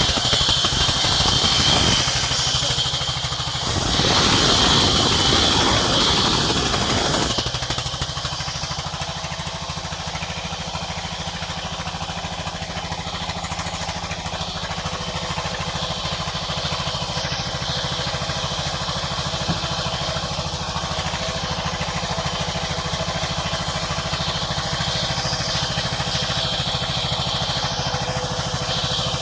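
Sawmill machinery running steadily with an engine-like drone. During the first seven seconds or so there are two loud stretches of harsh, hissing noise, typical of the saw cutting through a log, before the sound settles to a steady, quieter run.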